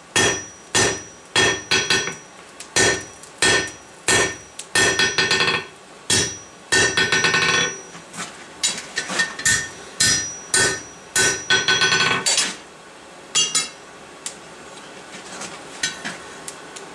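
Hand hammer striking a steel bar on an anvil, about two blows a second with the anvil ringing after each, including quick runs of lighter taps; this is drawing the bar out longer and thinner. The hammering stops about twelve seconds in, with a couple of last blows after.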